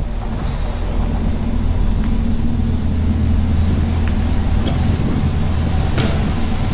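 A car's steady low road and engine rumble heard from inside the cabin while driving, with a few faint ticks.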